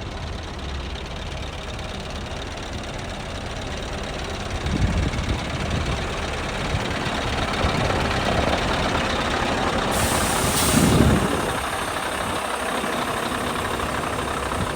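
Scania R500 truck's V8 diesel engine running, its sound swelling over several seconds, with a sudden hiss of released compressed air about ten seconds in, then settling back to a steady idle.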